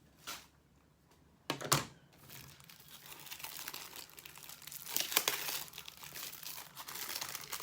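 Plastic packaging of a diamond painting kit crinkling as it is handled, with a sharp crackle about one and a half seconds in and steady crinkling from about two and a half seconds on.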